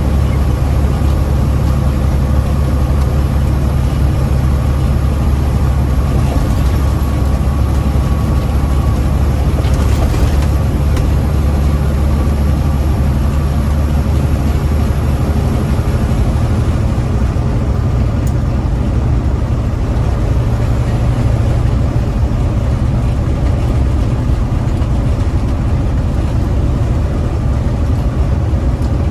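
Semi-truck diesel engine running steadily under way, a loud low drone heard inside the cab. Its low note shifts slightly about halfway through.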